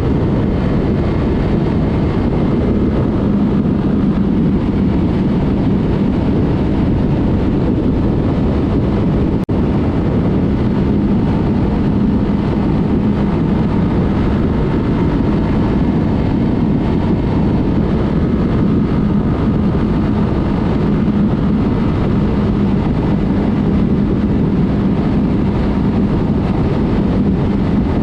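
Yamaha MT-03's parallel-twin engine with a Mivv aftermarket exhaust running at a steady cruise. Its steady drone sits over a constant rush of noise.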